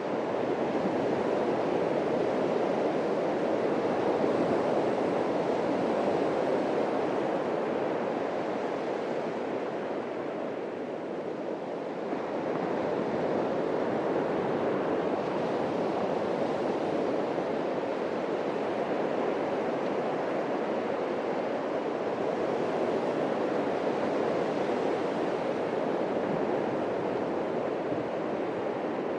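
Atlantic surf breaking and washing up a beach: a continuous rushing that swells and eases, dipping briefly about ten seconds in before building again.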